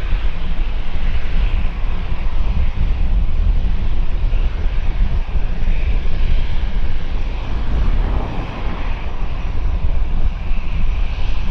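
Jet airliner engines, a steady deep rumble under a broad hiss. The hiss drops away suddenly at the very end.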